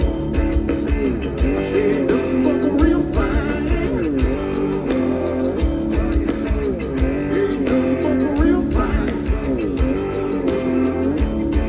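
Blues-rock band music with a steady drum beat and an electric guitar playing bending, sliding lead lines, with no singing transcribed.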